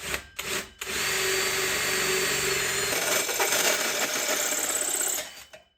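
Power drill boring a hole through a panel, running steadily for about four seconds after a few short knocks, its sound changing about halfway through, then stopping.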